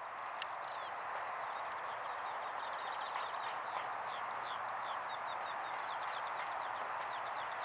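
A small bird singing a long run of short, high, falling chirps, several a second, over a steady rushing background hiss that slowly grows louder.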